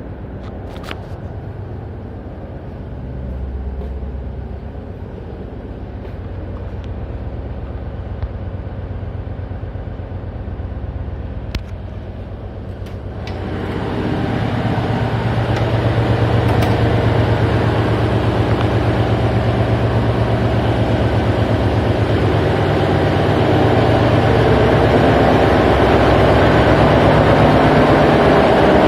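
Ship's diesel engine running steadily in the engine room of a fish-collecting vessel. About 13 seconds in it becomes clearly louder and fuller, and stays so.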